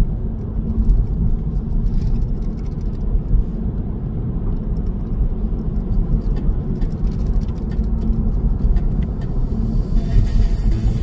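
Strong storm wind buffeting the microphone: a heavy, unbroken low rumble, with scattered light ticks and rattles.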